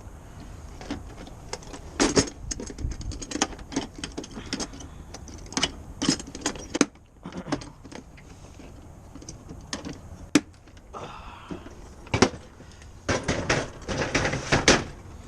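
Handling small-parts storage boxes of fuses and electrical connectors: scattered sharp clicks, knocks and rattles of cases and small parts, with a dense burst of rattling near the end.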